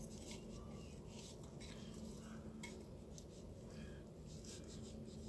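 Faint rubbing and light scattered taps of twine being wound around a decorative bird cage, over a steady low hum.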